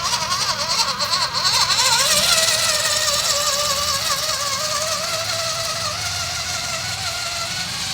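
Whine of a small RC truck's electric motor and gearbox, its pitch wobbling at first and then holding steadier, over a gear hiss.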